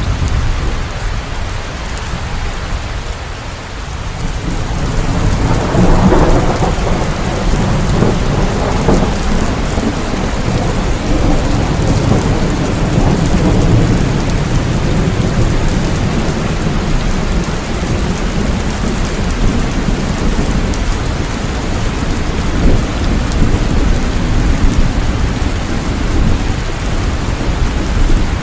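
Steady rain with a deep rumble of thunder that swells about six seconds in and rolls on beneath the rain.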